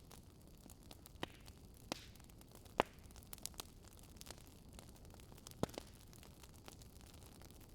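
Wood fire crackling: irregular sharp pops over a low steady hiss, the loudest pop about three seconds in.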